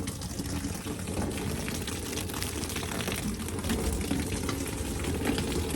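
Water from a garden hose pouring steadily into a rain barrel's lid, filling it in a trial run of the catchment system to test whether the water drains into the barrel.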